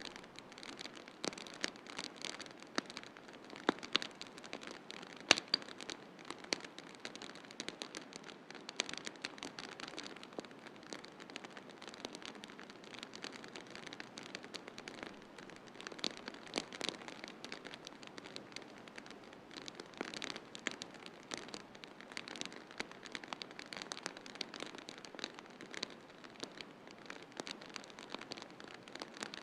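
Wood fire crackling in a fireplace: many irregular sharp pops and snaps, some much louder than others, over a steady soft hiss.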